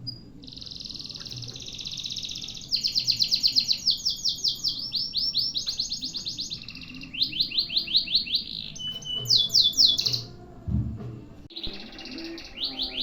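Canary singing long, unbroken phrases of rapid rolling trills that change note type every second or two. Near the end it breaks off briefly with a low thump, then starts trilling again.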